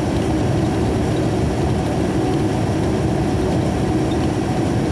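Steady engine and road noise of a loaded grain truck driving at a constant speed, heard from inside the cab.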